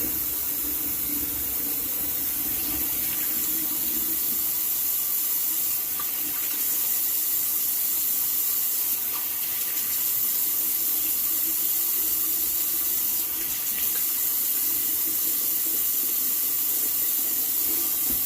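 Bathroom sink tap running a steady stream of cold water for a face rinse after a shave, cutting off suddenly at the end.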